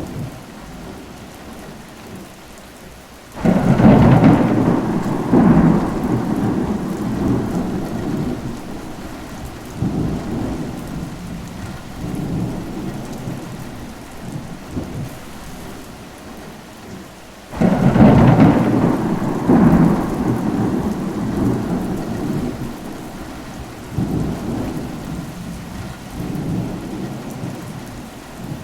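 Thunderstorm: steady rain with two claps of thunder, about three seconds in and again about seventeen seconds in, each breaking suddenly and rolling off in rumbles for several seconds.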